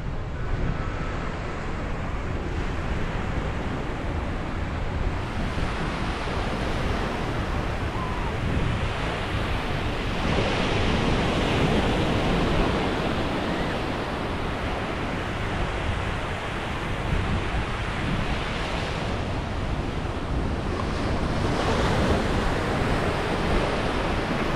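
Ocean waves breaking and washing up on a beach, the surf swelling louder twice, with wind rumbling on the microphone.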